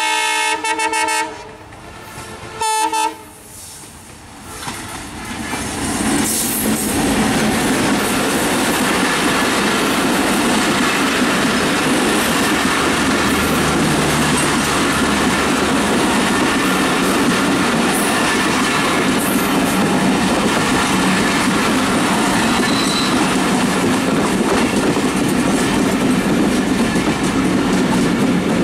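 WDM3A diesel locomotive sounding its multi-tone horn, one blast at the start and a short second blast about three seconds in. From about five seconds the locomotive and its passenger coaches pass close by in a steady loud rumble, wheels clattering over the rail joints.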